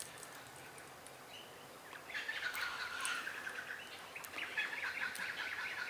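Wild birds calling in a rapid chattering run of notes that starts about two seconds in and carries on for roughly four seconds.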